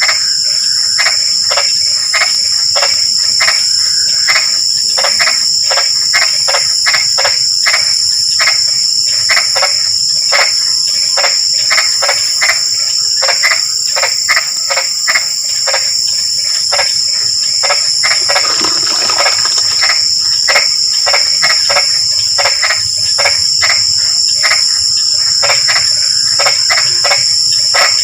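Chorus of frogs croaking in rapid, repeated calls, several a second, with one louder, nearer call about two-thirds of the way through. A steady, high-pitched insect trill runs behind the frogs.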